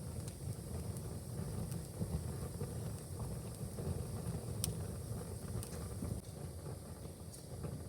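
Wood fire burning in a fireplace, crackling with scattered sharp pops over a steady low rumble, the loudest pop about four and a half seconds in.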